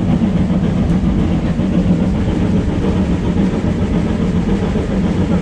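Steady rumble of a steam-hauled passenger train running along the line, heard from inside a carriage.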